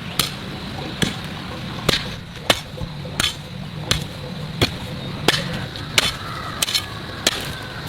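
Sharp knocks repeated at an even pace, roughly three every two seconds, over a low steady hum.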